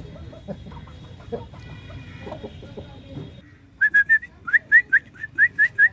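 Aseel chickens making low, scattered clucking sounds, then, nearly four seconds in, a loud fast run of short high whistled notes, about five a second.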